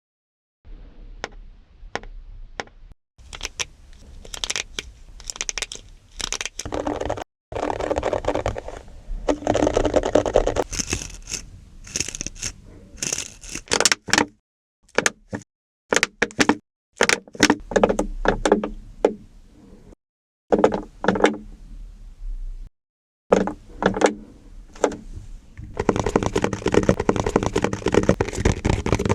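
Plastic pieces tapped, clicked, scraped and rattled close to the microphone in a string of short takes: sharp clicks and taps alternate with longer rattling, scratchy stretches, and each take cuts off abruptly. The longest and loudest rattling comes near the end.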